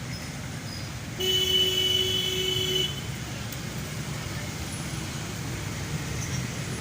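A vehicle horn sounds once, held for about a second and a half, over the steady rumble of road traffic.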